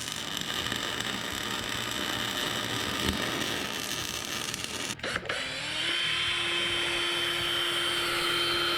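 A steady crackling hiss of MIG welding on a steel exhaust-mount tab for about five seconds. Then a power drill spins up and runs at a steady whine, drilling a hole in the bracket.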